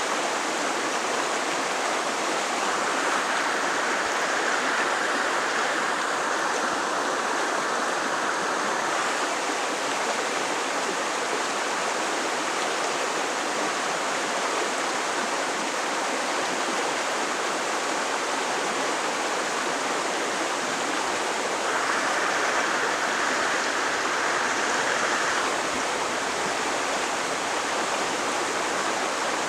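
Creek water rushing steadily over its bed, growing a little louder twice for a few seconds.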